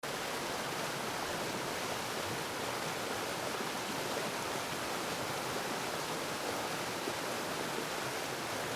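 Steady rushing noise of beach surf and wind, with no single wave standing out.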